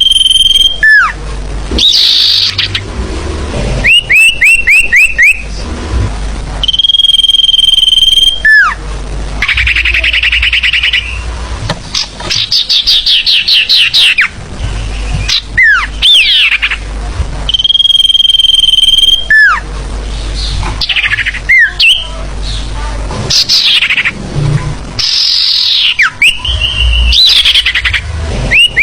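Bird-lure recording of busy forest bird calls: long steady whistles, quick runs of about five short rising notes, trills and falling whistles following one another without a break, loud and close.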